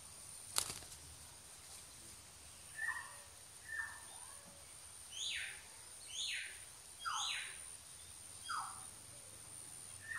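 A bird calling: six short notes, each sliding downward in pitch, roughly a second apart. A sharp click comes just before them, under a second in.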